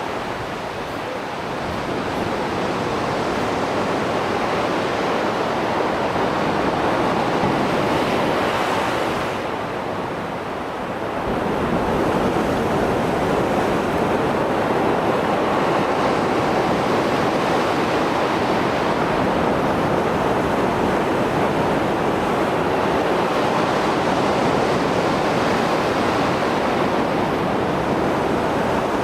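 Rough Mediterranean surf after a storm: waves breaking and washing ashore in a continuous roar of white water, briefly easing about a second in and again around ten seconds in before surging back.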